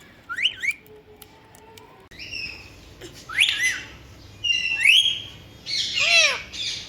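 Pet parrot giving a series of short whistled calls, most of them quick rising whistles, with an arching call near the end.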